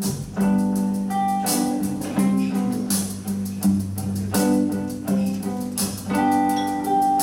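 Live band playing a slow song without vocals: guitars holding and changing notes over a steady beat.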